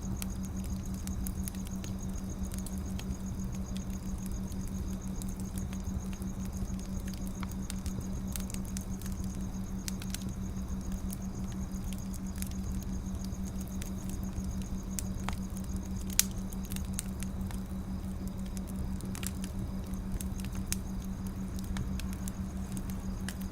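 Firewood burning with irregular small crackles and pops, one sharper pop about two-thirds of the way through, over a steady low hum.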